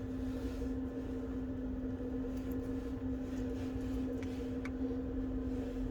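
A steady machine hum, with a few faint light clicks of small parts being handled during the second half.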